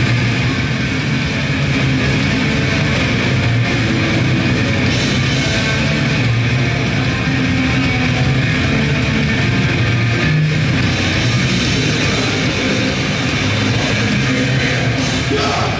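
Grindcore band playing live: distorted electric guitar, bass and drum kit in a loud, dense, unbroken wall of sound.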